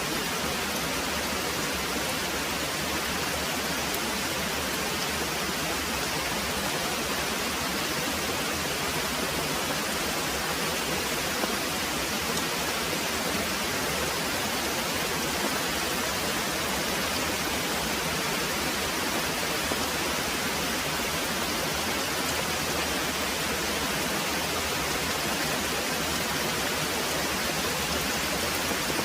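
Very heavy rain pouring steadily: an even, unbroken hiss.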